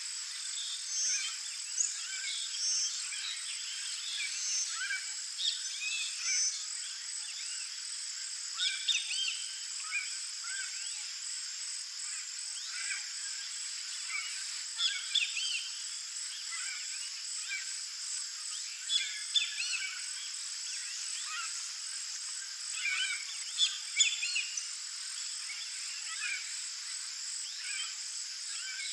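Scattered short calls of red-and-green macaws and other birds, the loudest a few seconds apart, over a steady high-pitched insect drone.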